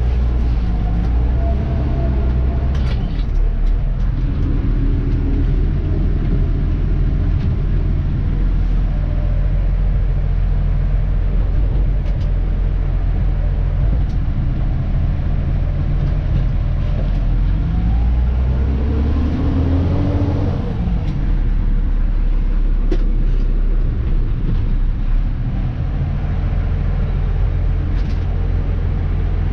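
Dennis Elite 2 refuse truck's diesel engine and drivetrain running steadily as it is driven, heard from the cab. The engine note rises twice, briefly near the start and again for a few seconds in the middle, as it pulls away or accelerates, with a few short clicks and rattles.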